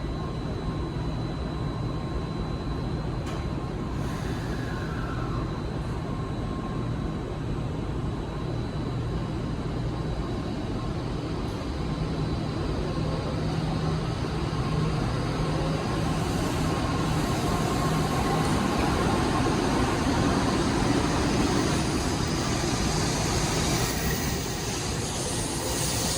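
Shinkansen bullet train running through the station, a steady rumble that grows louder through the middle and eases slightly near the end.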